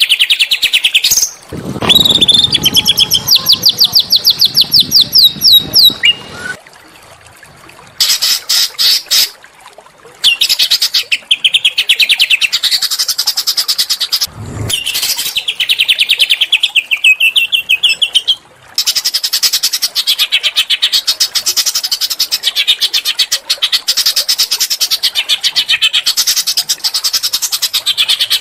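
Small songbirds singing loud, harsh runs of fast, evenly repeated high notes, in several long trills with short breaks between them. A low rumble sits under the first few seconds.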